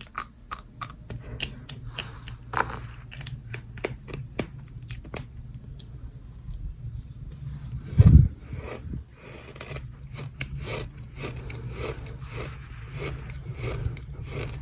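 Dry sand crunching and scraping close to the microphone, many small gritty crunches in quick succession, with one loud low thump about halfway through.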